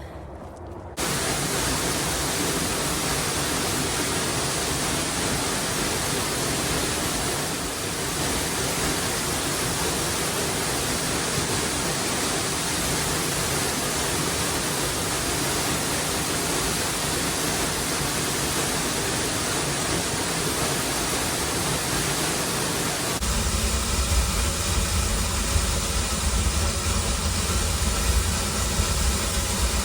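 A waterfall's steady rushing water, an even noise with no breaks. About 23 seconds in it changes to a heavier noise with a much stronger low end.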